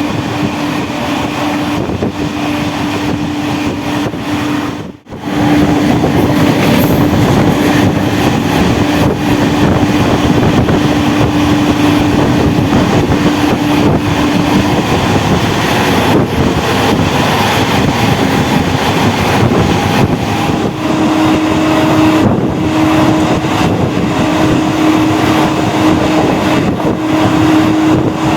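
MEMU electric train running along the line, wheels clattering over the rails, with a steady low hum through much of it. The sound drops out briefly about five seconds in.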